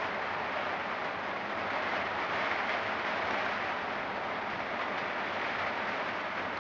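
Steady hiss of heavy rain during a thunderstorm, even throughout, with no thunderclap or rumble.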